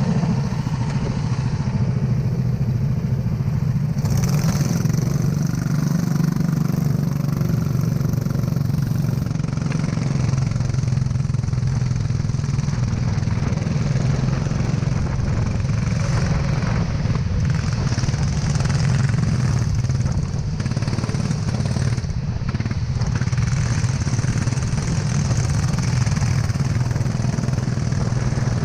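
Go-kart engine running steadily at an even pitch, with little revving.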